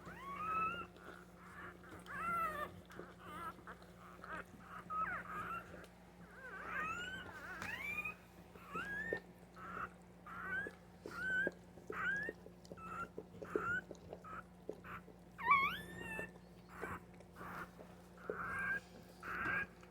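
Newborn puppies crying: a long run of short, high-pitched squeaks and whines, each rising in pitch, coming about one or two a second.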